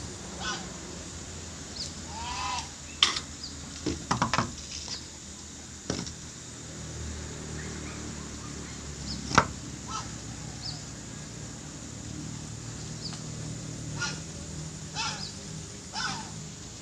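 Birds giving short, repeated honking calls, with a few sharp knocks; the loudest knock comes about nine seconds in.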